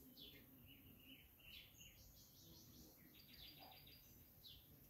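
Faint birds chirping in the background: scattered short, high, falling chirps and two quick trilling runs of repeated notes, over a low steady hum of ambient noise.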